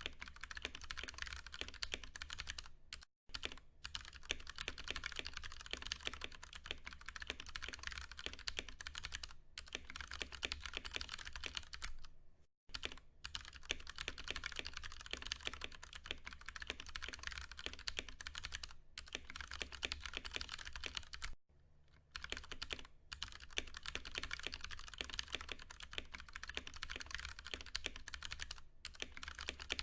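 Steady, fast typing on a Ducky One 2 Mini mechanical keyboard with Cherry MX Brown tactile switches: a dense run of key clicks and clacks, with a few brief pauses.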